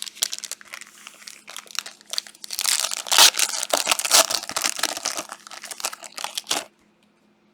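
Foil trading-card pack wrapper being torn open and crinkled in the hands, a dense crackling that builds about two seconds in and stops suddenly near the end.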